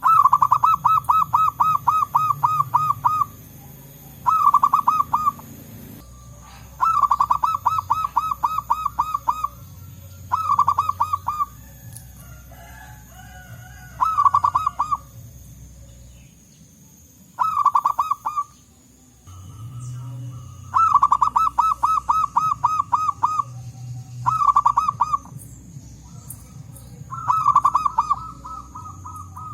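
Zebra doves (perkutut) cooing in about nine bouts of rapid, rhythmic pulsed notes, each bout lasting one to three seconds, as if calling back and forth.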